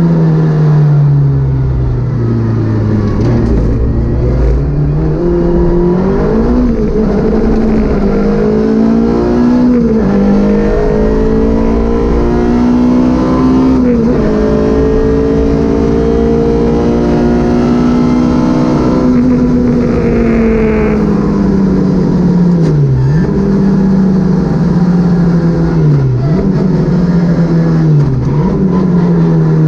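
Citroën Saxo VTS rally car's engine at full load, heard from inside the car: the engine note climbs through the revs and drops sharply at several gear changes, then falls away as the car slows for corners. A steady low road and drivetrain rumble runs underneath.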